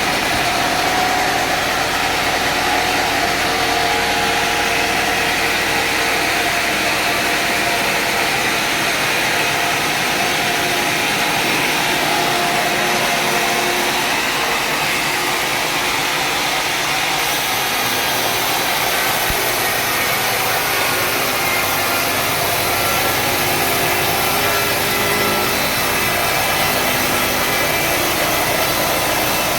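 Sawmill saw cutting through a mahogany log, with the mill's motor running steadily and without a break.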